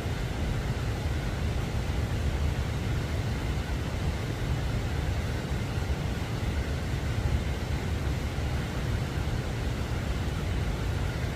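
Steady low rumble that wavers in level, with a fainter hiss above it.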